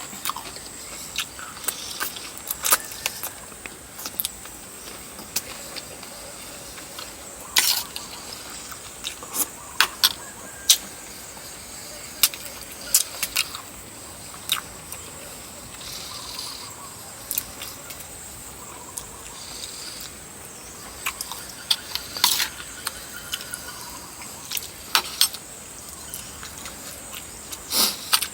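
A person eating chicken feet and rice noodles in coconut curry: irregular sharp clicks and smacks of chewing, over a faint steady high whine.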